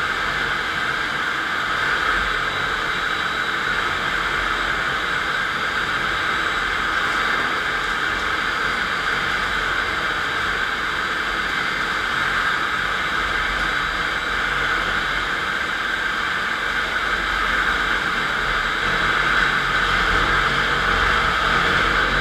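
FastPrep concrete floor grinder, driven by an electric motor, running steadily as its 16-grit diamond grinding plates cut the concrete floor: a continuous hissing whir that grows a little louder near the end.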